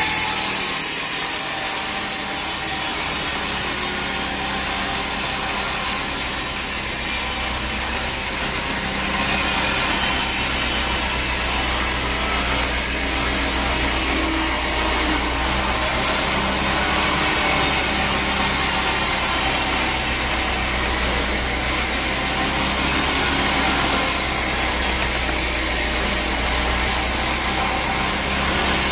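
Sawmill saw cutting steadily through a teak log, with the machine's motor running underneath.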